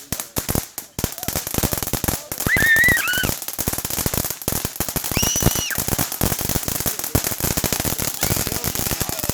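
Firecrackers going off in a long, dense string of rapid crackling pops. Two short high-pitched wails rise above them, about two and a half and five seconds in.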